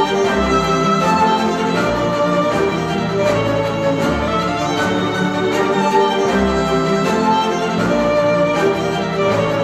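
Instrumental music with violins and other bowed strings over a pulsing bass, played back through Polk Audio Reserve R200 bookshelf speakers driven by a hi-fi amplifier.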